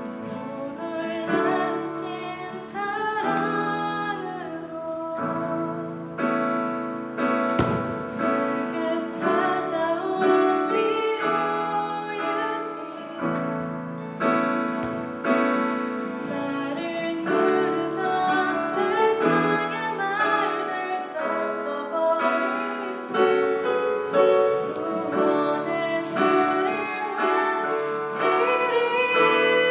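Worship song: voices singing a melody over piano accompaniment.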